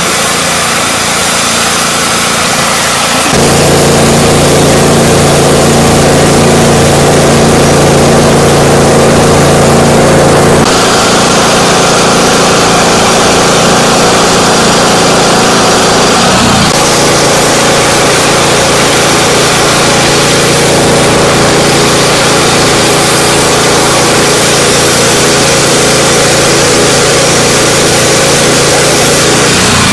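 Engine of a mobile high-pressure spraying unit running steadily under load, with a hiss over it. Its sound steps up and gets louder about three seconds in, then shifts in pitch and tone twice more, near the middle.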